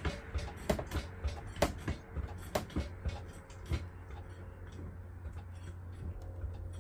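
Several sharp, irregular clicks and knocks, most of them in the first four seconds, over a steady low hum.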